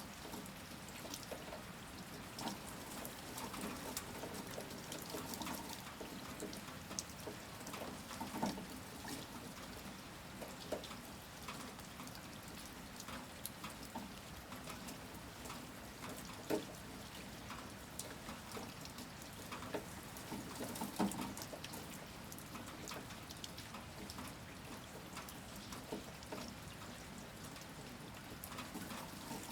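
Steady rain falling, with many irregular individual drops and drips on top and a few louder drips scattered through.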